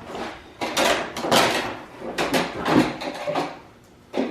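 Stiff plastic ATV body panels being pried and wrestled free: a run of short scraping, rubbing rattles and a knock near the end.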